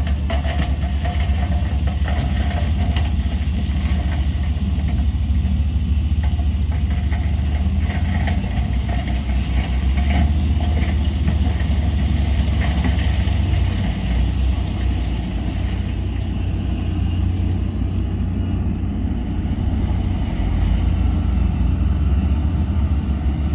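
Heavy diesel engine of earthmoving machinery running steadily, a deep continuous rumble.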